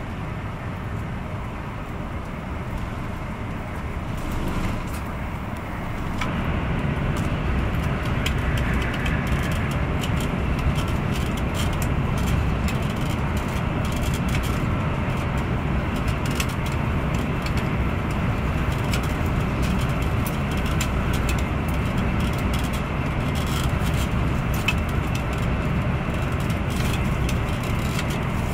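Renfe AVE S-102 (Talgo 350) high-speed train running at speed, heard from inside the passenger car: a steady low rumble with a rush of noise over it. It grows louder about six seconds in.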